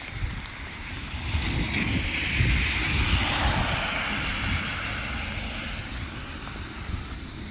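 Heavy rain hissing with wind buffeting the microphone; the hiss swells to a peak about two to three seconds in and then fades.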